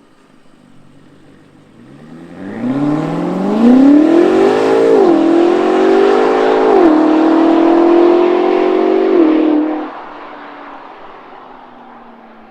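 BMW X5 M Competition's twin-turbo V8 with an aftermarket valved cat-back exhaust and particulate-filter delete, accelerating hard. The engine note rises and drops with two upshifts, near five and seven seconds in, then cuts off suddenly about ten seconds in to a fainter, fading sound.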